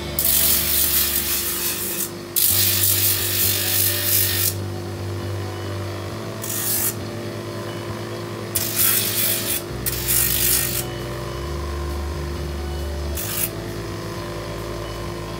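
Bench-mounted sanding drum running steadily, with repeated loud rasping bursts as cricket bat wood is pressed against it and pulled away: about six passes, the two longest near the start, each around two seconds.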